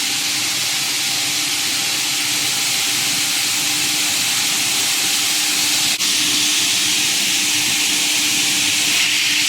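Semi-automatic dual circular saw cutting machine running: a steady hiss with a faint even hum underneath, briefly cut off about six seconds in.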